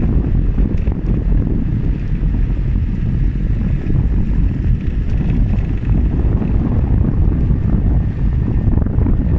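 Wind buffeting the microphone on a moving bicycle: a loud, steady low rumble.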